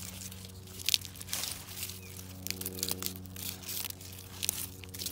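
Irregular crunching and sharp crackles, a few louder snaps among them, over a steady low hum.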